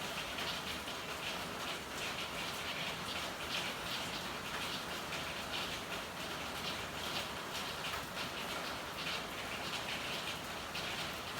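Steady rain, an even hiss over a dense, irregular patter of drops and splashes.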